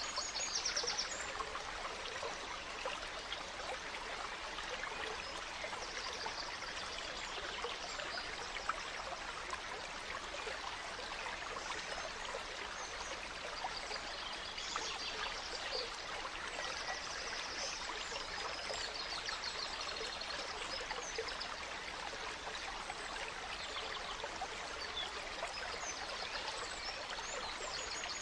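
Gentle stream flowing steadily, with small forest birds giving short, high chirps and trills now and then above the water.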